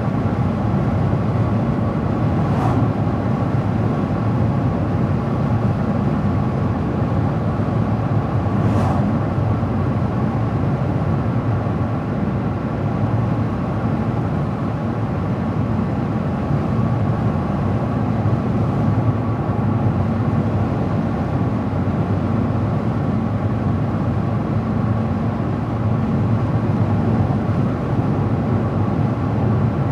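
Car driving at steady speed: constant low tyre and engine road noise.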